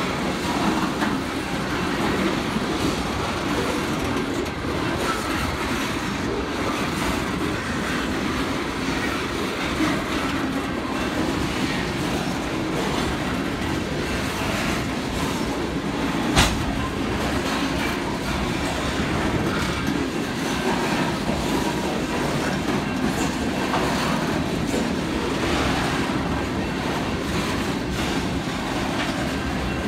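Coal hopper cars of a BNSF freight train rolling steadily past, steel wheels running over the rails. One sharp bang stands out about halfway through.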